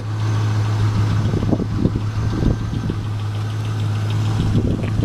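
2000 Chevrolet Camaro SS's 5.7-litre LS1 V8 idling with a steady low hum.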